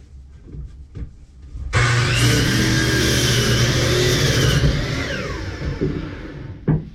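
Electric power saw switched on about two seconds in, running at speed for about three seconds, then switched off and winding down with a falling whine. A sharp knock comes near the end.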